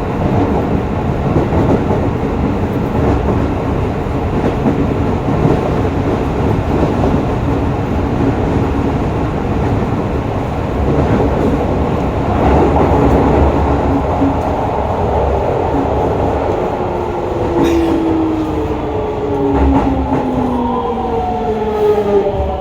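Hokuso 7300-series train 7301 heard from on board, its wheels and running gear rumbling on the track. From about two-thirds of the way in, the whine of its GTO-VVVF inverter traction motors comes in as several tones falling in pitch: the sound of the train slowing under electric braking.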